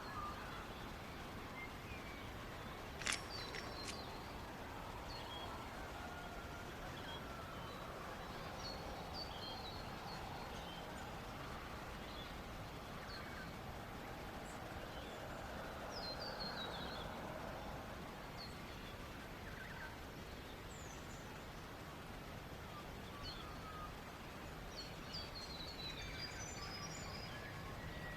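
Small birds chirping and calling on and off over a steady hiss of running river water, with one sharp click about three seconds in.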